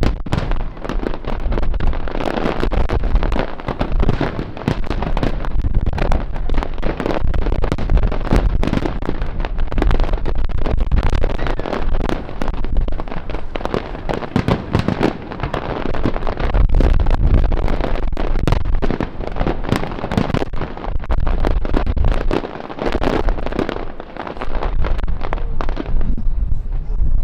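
Professional fireworks display at full intensity: a dense, continuous barrage of shell bursts and crackling with deep booms, thinning slightly near the end.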